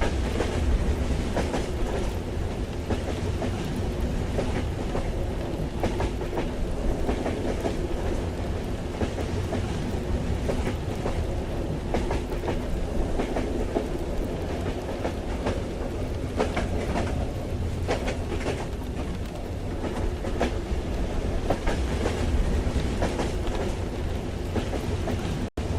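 Train running on the rails, heard from inside the carriage: a steady low rumble with irregular clacks of the wheels over rail joints. The sound cuts out for a moment just before the end.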